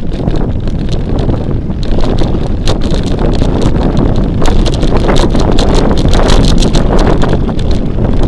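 Heavy wind buffeting on an action camera's microphone while riding a mountain bike off-road, with scattered clicks and knocks from the bike over rough ground.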